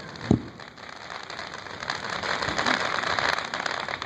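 Fireworks: a single boom about a third of a second in, then a dense crackling spreads and builds over the next couple of seconds, like crackling stars bursting.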